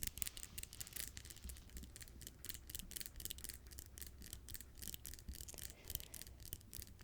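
Freshly manicured fingernails making a rapid run of light clicks and scratches, many a second and fairly quiet.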